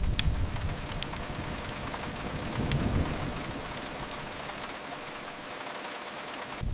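Steady rain hiss with occasional sharp crackles from a fireplace, over a low rumble that swells about halfway through and then dies away.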